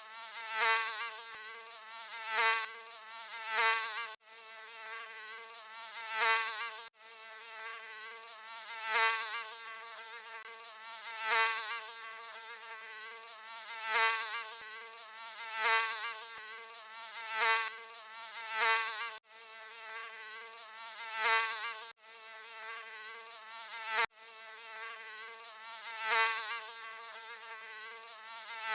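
Mosquito buzzing: a continuous high-pitched whine that swells louder and fades every second or two, like a mosquito flying close past the ear. It cuts out abruptly for an instant a few times.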